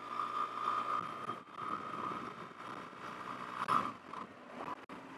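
Riding noise of a BMW R1200GS motorcycle under way, wind and engine together, with a steady high whine running through it.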